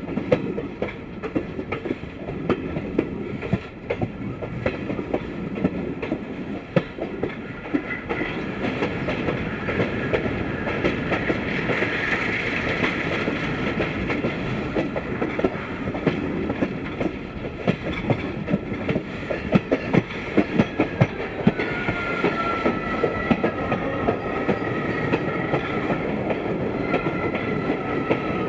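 Broad-gauge passenger train running, its wheels clicking over rail joints against a steady rumble. About three-quarters of the way through, a thin high squeal joins in, as of wheel flanges grinding on a curve.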